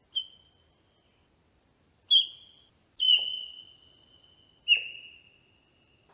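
Four high, clear whistled calls, each starting sharply and then held on one steady pitch as it fades. The second and third come about a second apart, and the third and fourth are the longest.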